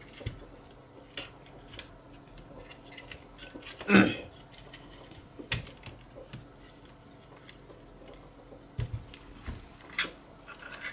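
Light metallic clicks and clinks of a graphics card being taken apart by hand: the metal cooler, backplate and tools being handled on the bench. One louder sound stands out about four seconds in.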